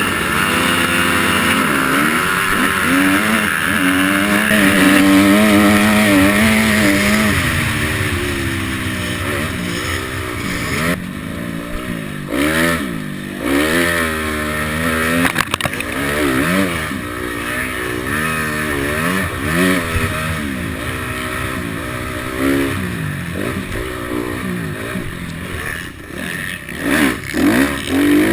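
Motocross bike engines revving hard, the pitch rising and falling over and over as the throttle is worked and gears change.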